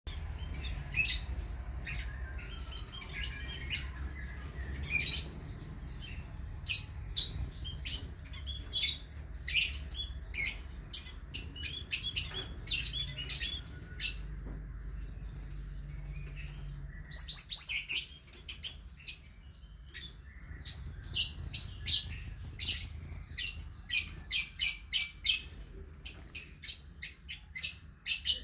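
Small songbirds chirping: many short, high chirps in quick runs, with the loudest cluster about seventeen seconds in. A low hum lies underneath until then.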